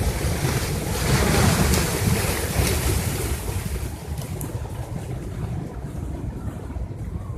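Flash-flood water rushing down a desert wash, with wind buffeting the microphone. It is loudest a second or two in and eases off about four seconds in.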